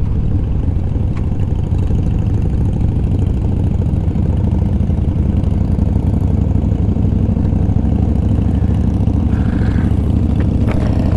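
Yamaha V-Star 1100 Classic's air-cooled V-twin engine running steadily at low road speed, held back behind slow traffic, with no change in revs.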